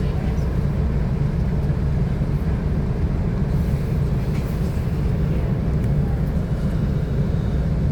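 Steady low rumble inside the carriage of a Class 172 diesel multiple unit, from its underfloor diesel engine and running gear.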